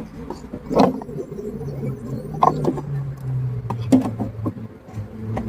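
Scraping and knocking of a hive tool on wooden beehive parts as a hive is opened up, with three louder knocks spread through, over a steady low hum.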